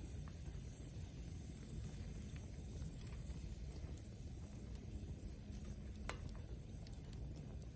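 Wood campfire burning with soft crackling and an occasional sharp pop, the loudest about six seconds in.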